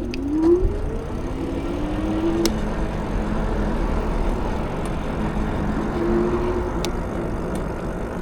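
Steady road and traffic noise, with a short rising whine in the first second and a steadier whine around two seconds in and again near six seconds.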